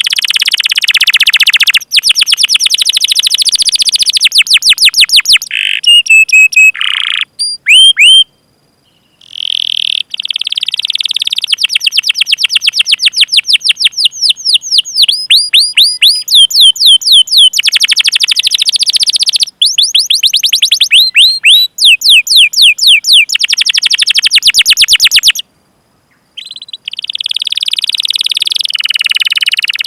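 Domestic canary singing long, fast rolling trills of repeated high chirps, broken by a few short pauses.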